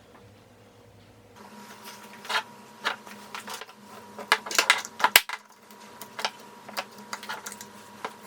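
A dozen or so irregular sharp clicks and taps, thickest around the middle, over a faint steady hum that comes in after a second or so.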